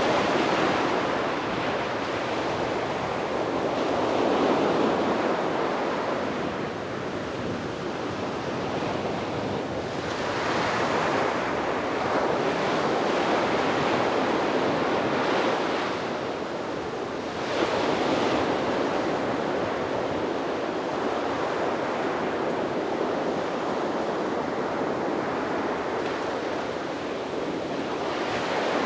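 Sea waves breaking and washing on a beach, the surf swelling and easing every few seconds, with a sharper break about two thirds of the way through. Some wind rumbles on the microphone.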